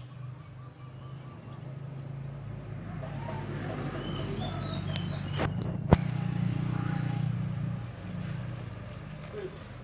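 A low engine hum from a vehicle swells and then fades, loudest past the middle. Faint bird chirps sound over it, and two sharp clicks come just after the middle.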